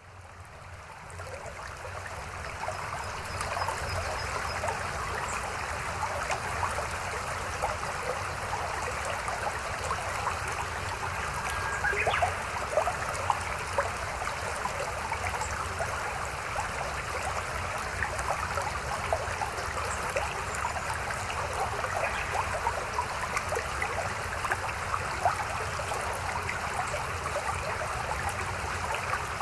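Mountain stream running, a steady rush of water dotted with many small splashes and gurgles; it fades in over the first few seconds, then holds steady.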